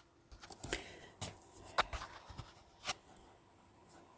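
Faint rustling and handling noise with a few short sharp clicks spread through it, about a second apart.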